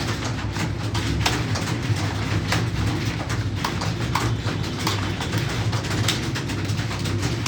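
Computer keyboards being typed on: irregular, rapid key clicks over a steady low hum.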